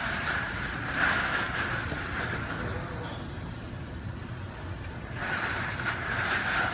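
A heavy rainstorm's steady rush of wind and rain, swelling about a second in and again near the end.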